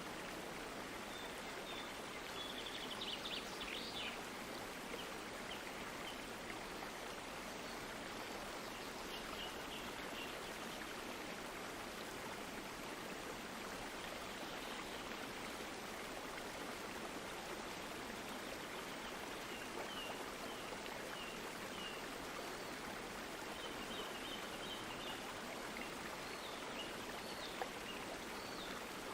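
A stream of water flowing with a steady rushing sound, with faint, short high chirps now and then.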